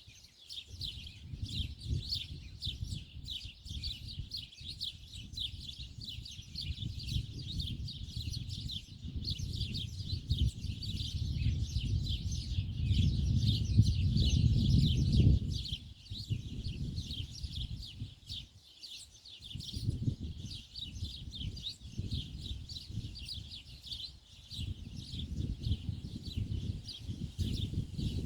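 Many small birds chirping continuously in quick short notes, with a low rumbling noise underneath that swells toward the middle and drops away abruptly a little past halfway.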